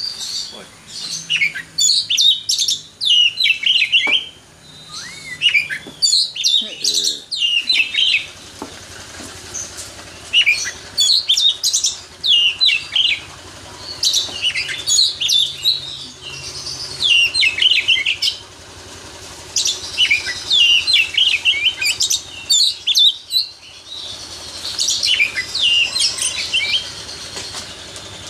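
Oriental magpie-robin singing: about six long phrases of rapid, varied high whistles and trills, each a few seconds long with short pauses between.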